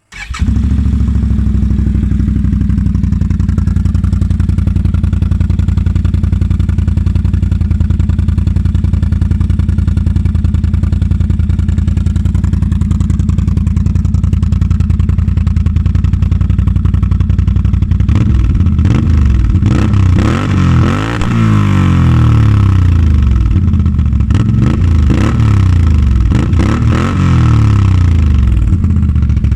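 650 motorcycle with a new MBRP aftermarket exhaust, started and idling loud and steady, then revved up and down repeatedly from about two-thirds of the way in before settling back to idle near the end. The exhaust has a loud bark.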